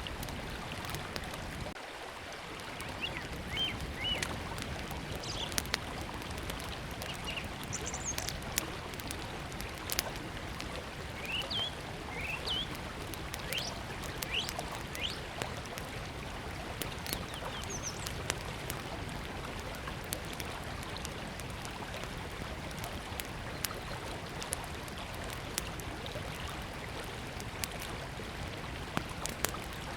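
Small wood campfire crackling, with scattered sharp pops, over the steady rush of a river. Small birds chirp on and off, mostly in the first half.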